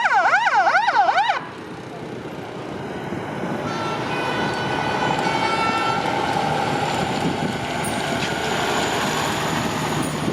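Fire truck siren yelping in a fast up-and-down sweep for about a second and a half, then cutting off suddenly. After it, truck engines and road noise run on, with a steady held tone from about four seconds in.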